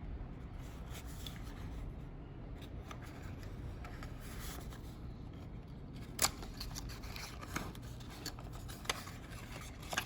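Packaging being handled and opened: rustling and scraping, then a few sharp clicks, the loudest about six seconds in, over a steady low hum.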